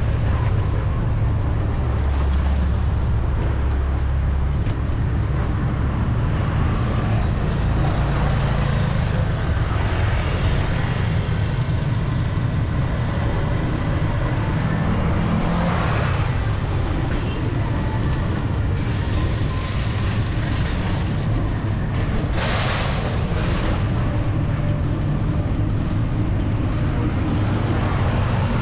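Busy city street traffic heard from a bicycle: a steady low rumble of passing engines. Brief louder hissing swells of passing vehicles come about halfway through and again about three quarters of the way in.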